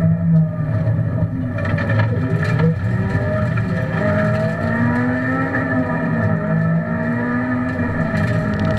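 Honda Civic Type R rally car's engine heard from inside the cabin at full stage pace, its pitch rising and falling as the driver accelerates, lifts and changes gear between corners. A few sharp clicks come about two seconds in.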